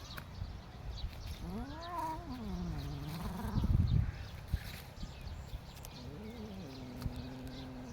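An animal calling: a drawn-out call that rises and falls about a second and a half in, a short call later, then a long steady held call near the end. Low muffled thumps sound a few seconds in.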